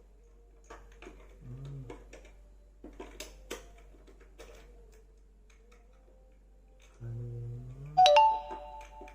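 Clicks and knocks of hands working plastic metal-detector parts while fitting batteries, over a faint steady tone. Near the end a bright chime of several tones rings out, the loudest sound, and fades.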